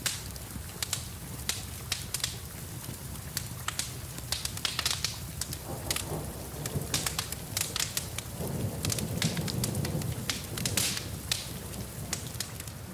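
Wood fire crackling and popping in a fireplace with frequent sharp snaps, over a steady hiss of rain.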